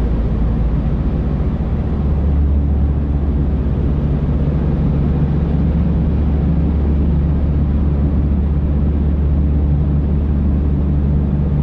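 Steady low drone of road and engine noise from a car driving through a highway tunnel, heard from inside the cabin.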